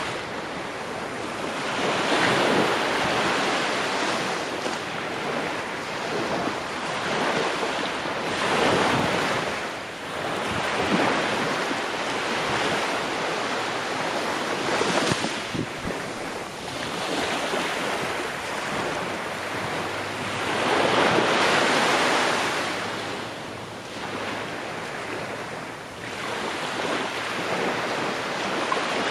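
Ocean waves breaking on a shore: a continuous rushing surf that swells and recedes every few seconds, with a louder wave around twenty seconds in.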